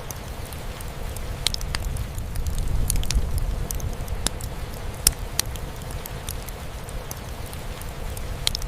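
Crackling fireplace and steady rain on a roof: scattered sharp pops and snaps from the fire over a low, even rumble of rain.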